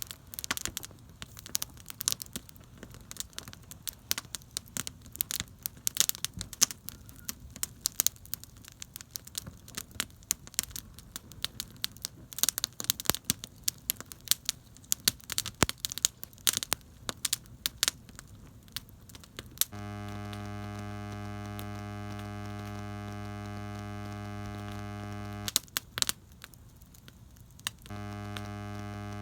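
Campfire crackling and popping: a dense run of sharp snaps. About twenty seconds in, a loud, steady buzzing hum takes over; it drops out for about two seconds, with a few snaps heard in the gap, then comes back near the end.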